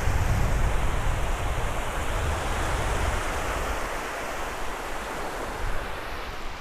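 Surf washing onto a sandy beach, a steady rushing hiss that swells a couple of seconds in, with low wind rumble on the microphone that eases off about four seconds in.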